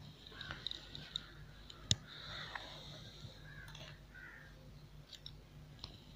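Small metal parts of a gas iron's valve clicking and tapping as they are handled and fitted back together, with one sharper click about two seconds in.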